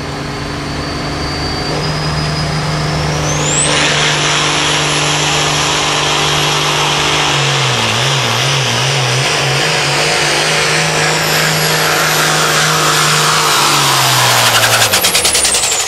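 International hot farm pulling tractor's turbocharged diesel making a full pull. The engine runs loud, and its turbo whistle climbs steeply about three seconds in and holds high. The engine pitch wavers briefly around the middle. Near the end the engine cuts back and the turbo whine falls away.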